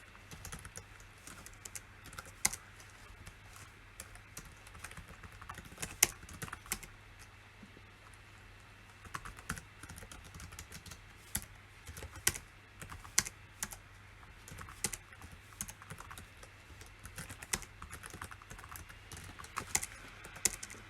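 Typing on a PC keyboard: irregular runs of key clicks with pauses, and a few louder key strikes standing out, over a faint steady low hum.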